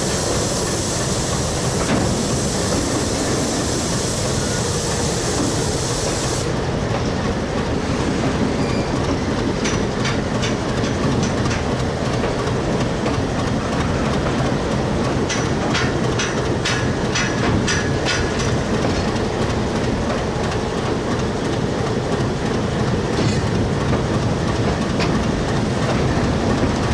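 Freight train of covered wagons rolling past, its wheels rumbling and clattering over the rail joints in bunches of clicks. A steady hiss cuts off suddenly about six seconds in.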